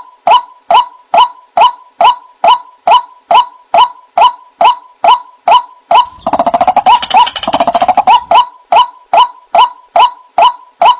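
White-breasted waterhen (ruak-ruak) calling: a short, loud call note repeated a little over twice a second. From about six to eight seconds in, it breaks into a dense, rapid chattering run before the steady calls resume.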